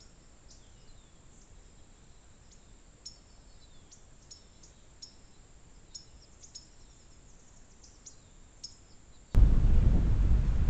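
Faint, scattered bird chirps over a steady high-pitched whine. About nine seconds in, this cuts suddenly to loud, low rumbling noise.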